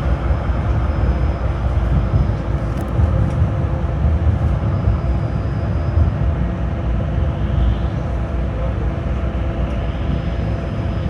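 Tram running between stops, heard from inside the car: a steady rumble of wheels on the rails with a steady hum over it, and a few faint clicks.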